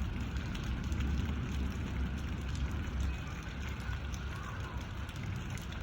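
Steady rain falling, with a few light drop ticks and a low rumble underneath.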